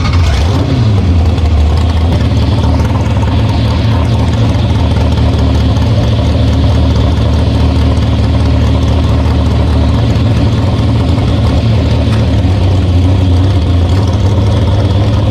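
Drag race car's engine idling loudly and steadily, after a brief rev that falls away about a second in.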